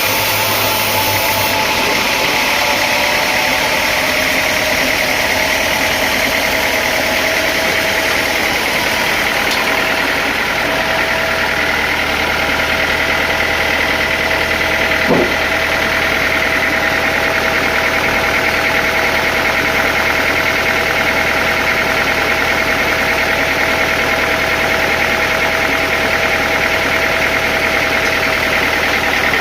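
Sawmill machinery running steadily, a motor's even whine over a low hum, with one short knock about halfway through.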